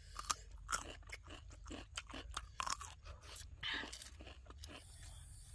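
Raw cucumber being bitten and chewed: a rapid, irregular run of crisp crunches that thins out near the end.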